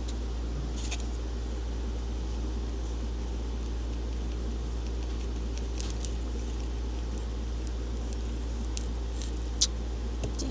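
A steady low hum with a few faint clicks and taps of small objects being handled, and one sharper click near the end.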